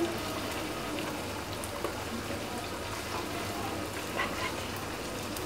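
Mutton masala sizzling steadily in hot oil in a karahi while a spatula stirs it, with a few faint scrapes.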